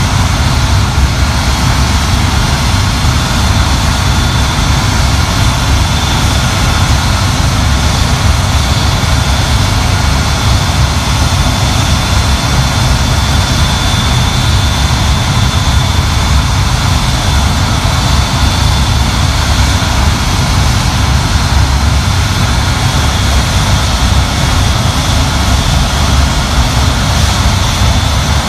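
The Rolls-Royce Olympus turbojets of the Avro Vulcan XM655 running steadily on a ground engine run. The sound is a loud, unchanging jet roar with a deep rumble and a thin, steady high whine above it.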